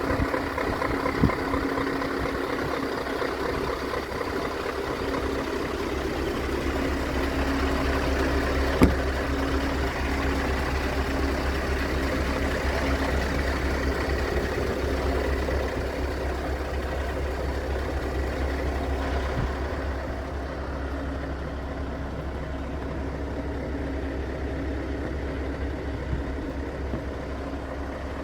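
Scania R580 truck's 16-litre V8 diesel idling steadily. A sharp click comes about a second in and another near nine seconds. The sound grows a little quieter and duller about twenty seconds in.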